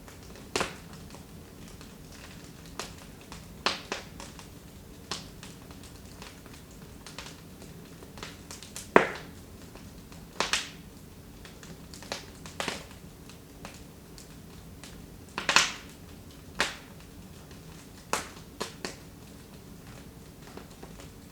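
Wood fire in a fireplace crackling with scattered sharp pops at uneven intervals, the loudest about nine seconds in and just past fifteen seconds, over a low steady background.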